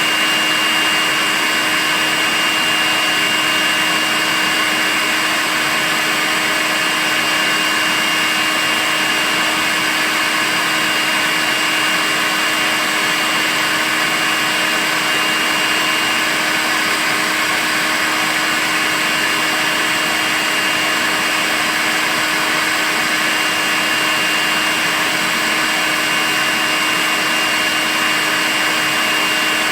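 Makita cordless stick vacuum cleaner running steadily, a constant motor whine and rush of air with a high tone held throughout.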